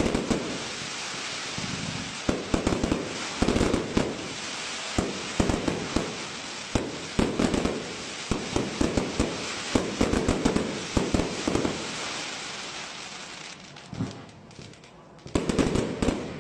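Professional fireworks display: rapid shell bursts and bangs over continuous crackling. The barrage dies down to a brief lull about 14 seconds in, then a fresh volley of bangs starts near the end.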